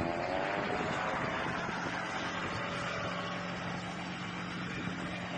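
Steady engine drone over outdoor noise, with a faint pitch that falls slightly in the first second.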